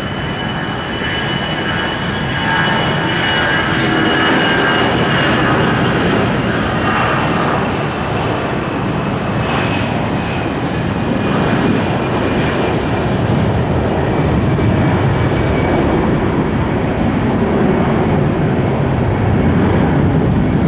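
Jet airliner taking off at takeoff thrust: a loud, steady engine rumble with a high fan whine that slowly falls in pitch.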